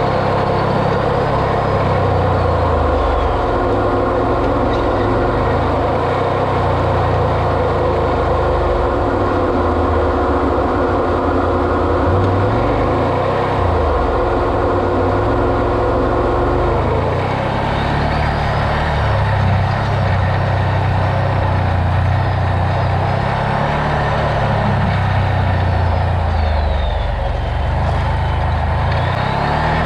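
Off-road vehicle's engine running while driving, its pitch rising and falling with the throttle. A steady whine drops out a little past halfway.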